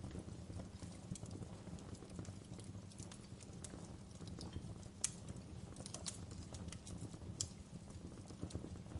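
Wood fire burning in a fireplace: irregular crackles and sharp pops over a low steady rumble, the loudest pop about five seconds in and another about two and a half seconds later.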